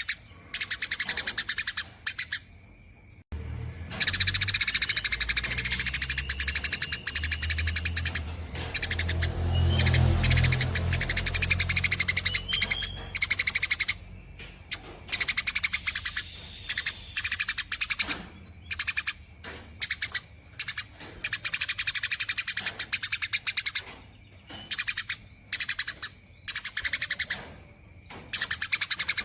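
Eurasian tree sparrow giving long, rapid chattering trills in runs broken by short pauses. A low rumble sits beneath the calls for several seconds in the first half.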